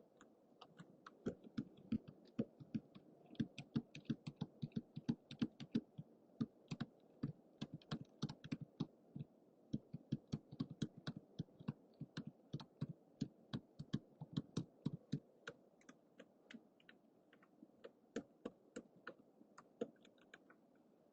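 Typing on a computer keyboard: a steady stream of key clicks, several a second, thinning out over the last few seconds, over a faint steady background hiss.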